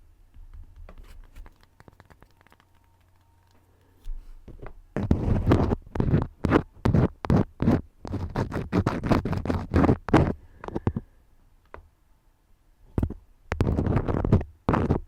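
Crayons scratching in quick, rapid strokes close to the microphone. After a few faint taps, the strokes start loud about five seconds in, pause briefly a little past halfway, and pick up again near the end.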